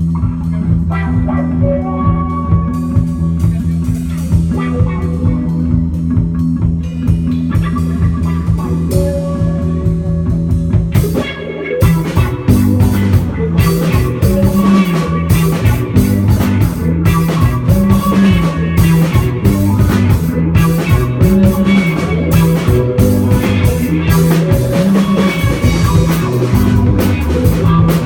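Instrumental rock trio playing live on electric guitar, bass guitar and drum kit. For the first eleven seconds or so, long held low bass notes sit under the guitar. About twelve seconds in, after a short drop, the drums come in hard and the bass moves into a riff.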